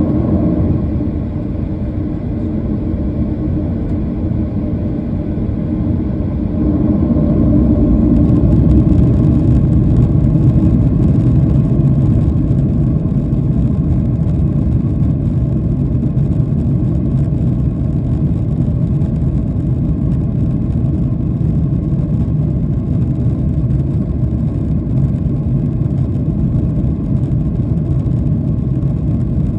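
Boeing 737-800's CFM56 jet engines heard from inside the passenger cabin as a steady, loud rumble, which gets louder about seven seconds in and then holds.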